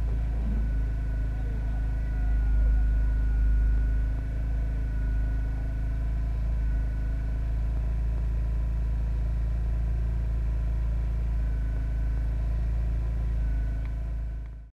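Steady low rumble with a constant hum, like a motor running at an even speed, fading out near the end.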